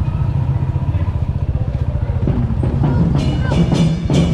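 Royal Enfield Classic 350's single-cylinder engine running on the move, a fast steady low pulse. About three seconds in, music with sharp percussive hits starts over it.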